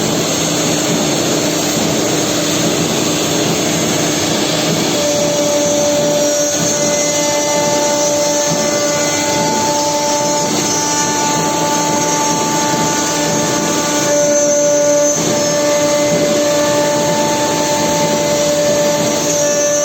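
Four-spindle CNC nesting router running on wood panels: a loud steady rush of machine noise with a spindle whine held at steady pitches. The whine changes pitch a few times, about five, ten and fourteen seconds in.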